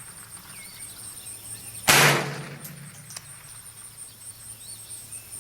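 A single shot from a Smith & Wesson M&P 15-22 semi-automatic rifle firing .22 LR, a sharp crack about two seconds in that dies away quickly.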